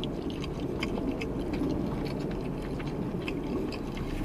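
Closed-mouth chewing of a mouthful of lasagna: soft, scattered wet mouth clicks over a steady low hum.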